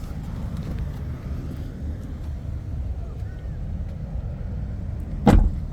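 Steady low outdoor rumble, then one loud thump about five seconds in.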